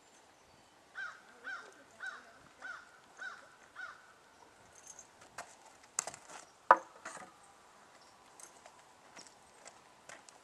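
A bird calling six times in an even series, a little under two calls a second, each call dropping in pitch at its start. A few sharp knocks follow about two-thirds of the way through, the loudest a single hard knock.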